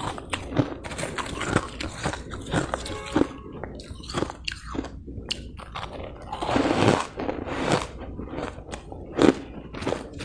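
Soft, powdery ice being bitten and chewed close to the microphone: a rapid run of crisp crunches, with a longer, louder crunch about two-thirds of the way in.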